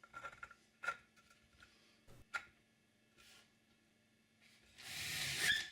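A few faint, light clicks and taps, about three spread over the first two and a half seconds, over a faint steady hum; near the end a rising rushing noise starts.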